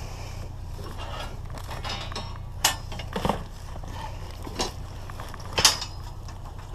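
Scrap metal being handled, giving four sharp metallic clanks spread over a few seconds, over a steady low hum.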